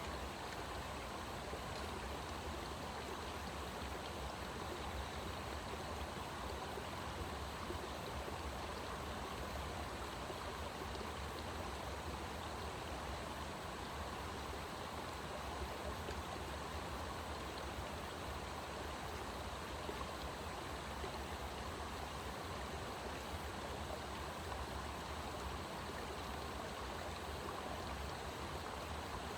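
Steady rushing of running water from a stream, with a low rumble underneath.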